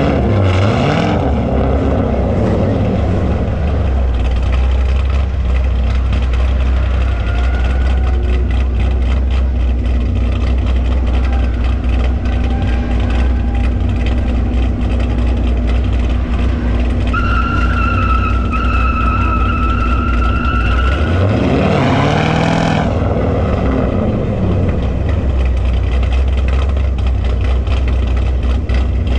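Car engine running with a steady deep drone, revving up right at the start and again about 22 seconds in. A high steady squealing tone is heard for a few seconds shortly before the second rev.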